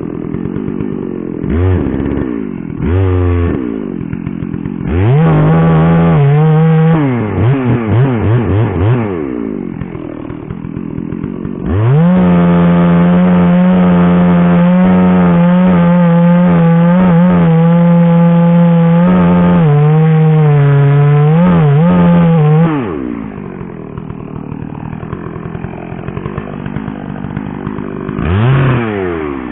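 Two-stroke chainsaw idling and blipped up a few times, then held at full throttle for about ten seconds before dropping back to idle, with one more short rev near the end.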